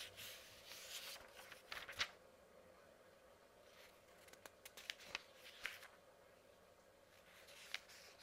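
Paper pages being turned by hand: soft paper rustling with crisp little ticks, in three separate bursts a few seconds apart.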